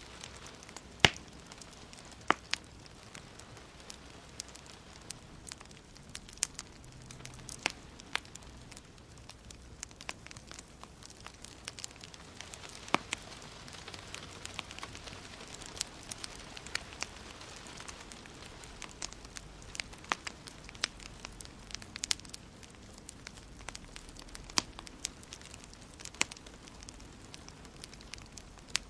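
Wood fire crackling in a fireplace: irregular sharp pops and snaps, the loudest about a second in, over a steady soft hiss.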